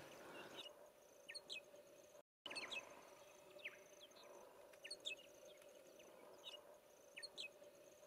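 Faint chirps of small birds: short high notes in little clusters about once a second, over a faint steady hum. The sound cuts out completely for a moment about two seconds in.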